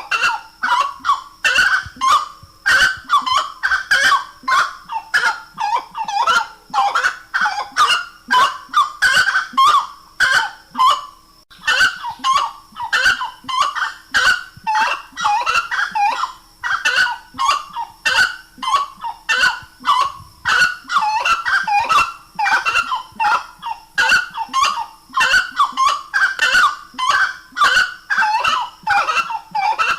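Grey-cowled wood rail (saracura-três-potes) singing: loud, rapidly repeated honking phrases running on almost without pause, with a short break about eleven seconds in.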